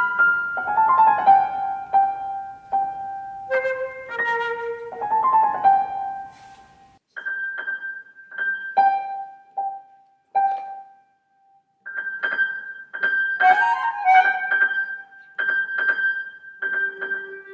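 Flute and piano playing a contemporary classical piece: short, separate piano notes and chords that ring and fade, broken by two brief pauses.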